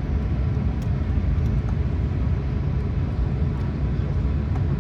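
Steady low rumble of an Airbus A380 heard from inside the passenger cabin, with a few faint ticks.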